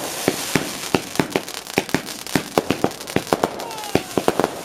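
Fireworks display: a rapid barrage of sharp bangs and crackles, about four or five a second, over a hissing background, with a few falling whistles near the end.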